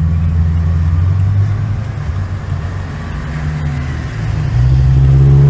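A car's engine and road noise heard from inside the cabin: a steady low drone that rises a little in pitch and grows louder about four and a half seconds in, as the car speeds up.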